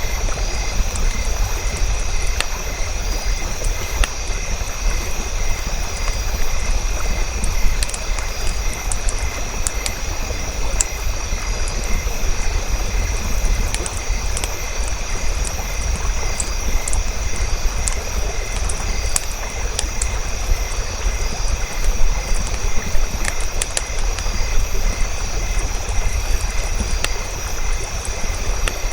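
Campfire burning: a steady low rumble with scattered sharp crackles and pops throughout, over a few steady high-pitched tones, one of them pulsing.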